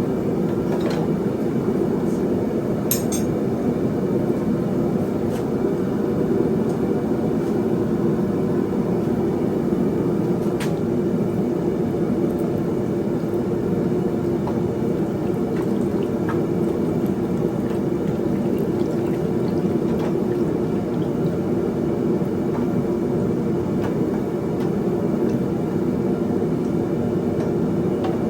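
Blacksmith's forge running with a steady rushing noise while a steel hardy tool is heated to cherry red for hardening. A few faint clicks sound over it.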